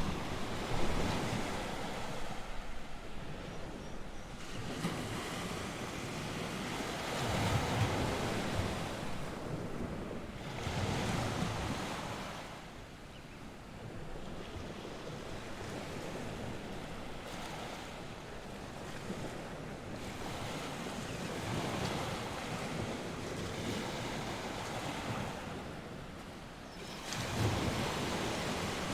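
North Sea waves washing onto the shore, the surf swelling and easing every few seconds, with wind blowing across the microphone.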